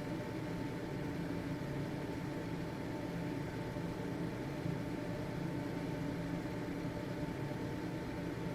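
Household ventilation fan running steadily: an even motor hum and rush of air with a faint steady whine.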